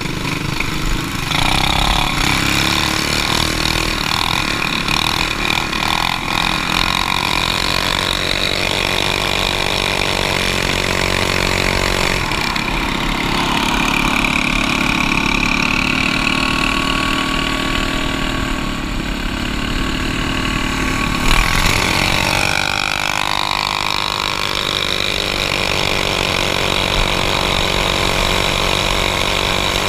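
Trail Master Hurricane minibike engine running and being revved as it rides, its pitch rising and falling repeatedly.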